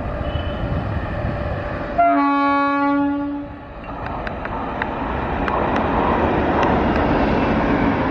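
A train horn sounds one loud blast of about a second and a half over the rumble of trains. The rumble then grows as an Indian Railways WAP-7 electric locomotive and its coaches run past, with a few sharp clicks from the wheels.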